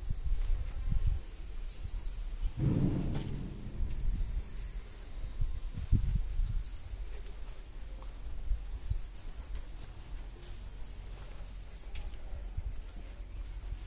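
Small birds chirping in short high calls every second or two, with a quick trill near the end. Soft low thumps of footsteps on concrete stairs underneath, and a brief low sound about three seconds in.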